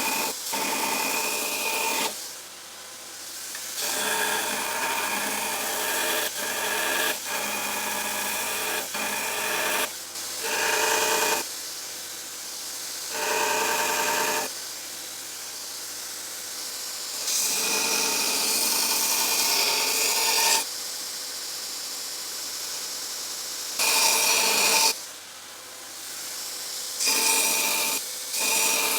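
A power grinder with a steady whine, rasping against an 80CrV2 steel blade, in short stretches that start and stop abruptly every few seconds.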